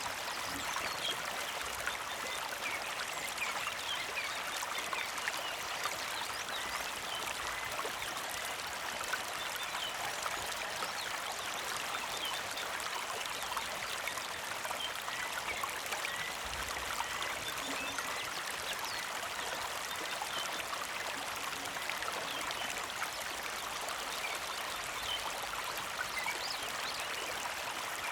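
Small creek flowing and trickling steadily, with faint short bird chirps scattered over the water sound.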